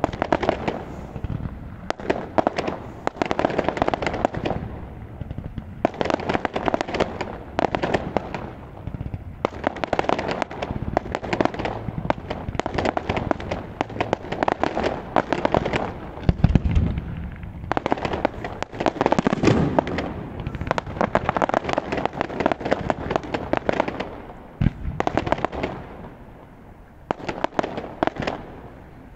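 Fireworks display: aerial shells bursting in dense volleys of rapid cracks and bangs, with a couple of deeper booms partway through. The firing thins briefly near the end, then picks up again.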